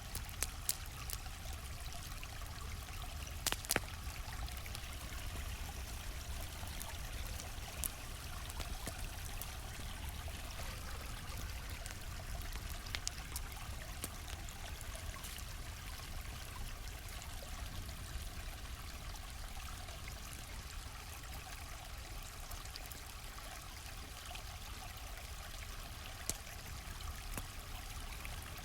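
A gently flowing stream trickling steadily, with a campfire crackling alongside it: scattered sharp pops and snaps, a few louder ones among them.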